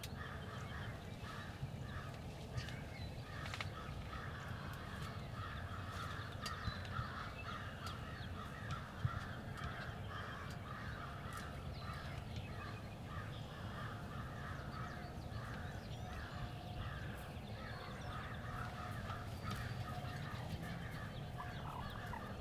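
Birds calling in a long run of short repeated notes, about two a second, which stop near the end, over a low steady rumble.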